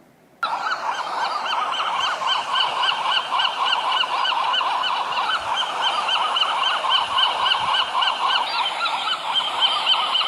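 A flock of geese honking, many short calls overlapping in a dense, continuous chorus that starts about half a second in.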